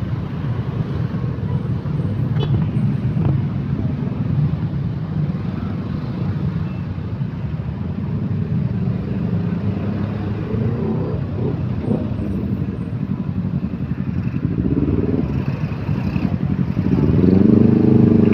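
Steady low rumble of a passing vehicle, with a pitched engine tone rising and falling near the end that grows loudest at the close.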